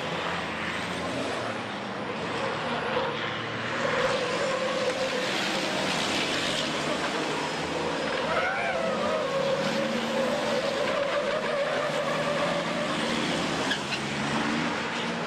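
Racing trucks' diesel engines running hard on the circuit: a steady, loud mix of engine and road noise with a held engine tone.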